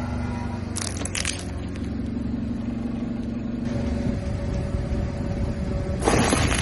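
Car engine running with a steady hum while its tyres roll over brittle objects, crushing them with two short bursts of crunching and cracking, about a second in and near the end.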